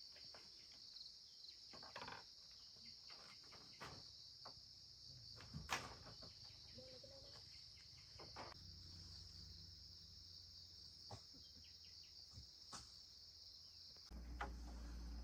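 Faint, steady high-pitched chorus of crickets or similar insects, with scattered small clicks and knocks. A low steady hum comes in near the end.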